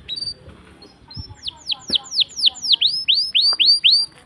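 A songbird singing: a short opening note, then a rapid run of about a dozen loud, clear downslurred whistles, about four a second, that stops abruptly near the end.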